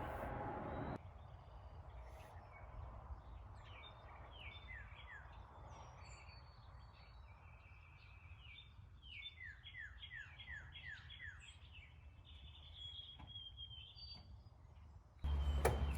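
Small birds chirping: a run of short, quick, falling chirps, thickest in the middle, over a low steady background rumble. A louder low hum cuts in abruptly near the end.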